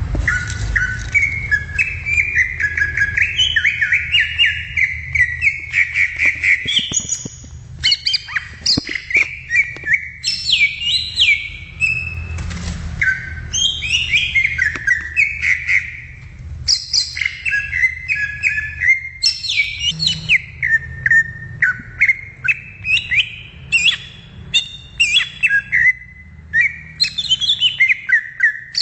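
Greater green leafbird (cucak ijo) singing a long, rapid, varied song of chirps, quick trills and whistled phrases, over a steady low hum.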